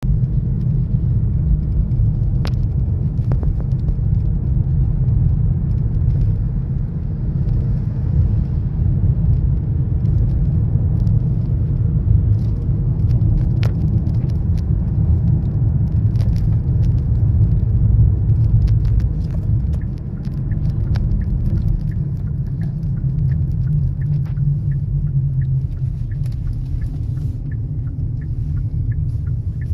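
Kia Sorento 2.0 gasoline car running, a steady low rumble, with faint evenly spaced ticks near the end.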